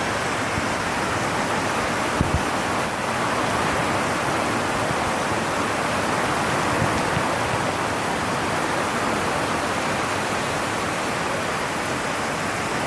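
Heavy rain drumming steadily on a tin roof, a dense even hiss of a downpour. Two brief knocks sound a little over two seconds in.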